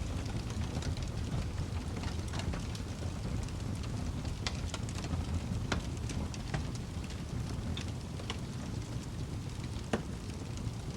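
Wood fire in a fireplace crackling over a low steady rumble of flames, with scattered pops and one sharper pop near the end.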